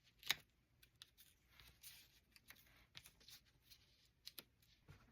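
Near silence, with faint handling of paper and cardstock pieces: one sharp tap about a third of a second in, then a few light ticks.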